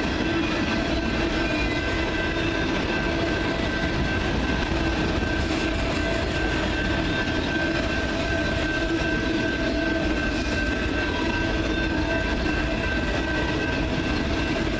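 CN freight train's cars rolling steadily past, a continuous rumble of wheels on rail with steady ringing tones held over it.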